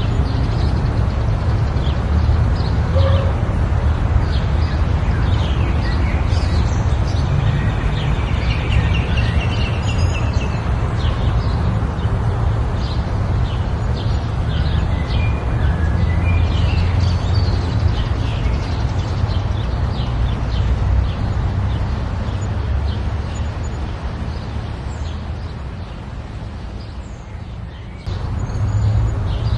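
Birds chirping, many short calls over a steady low rumble.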